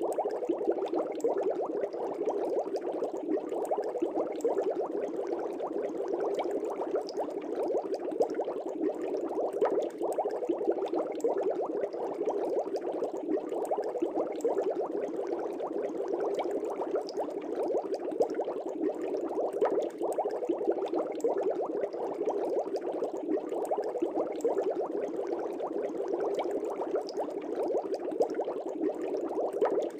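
Air bubbles streaming through fish-tank water: a steady, unbroken bubbling.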